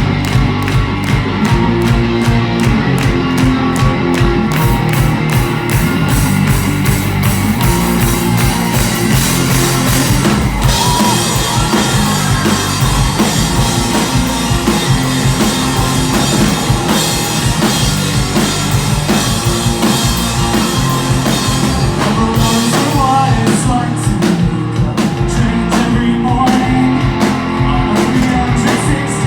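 Rock band playing live, with drum kit and guitars over a steady beat. About ten seconds in, the sound grows fuller and brighter as the band comes in harder.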